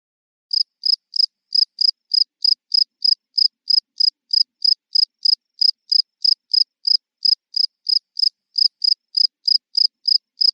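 Cricket chirping: a steady run of short, evenly spaced high-pitched chirps, about three a second.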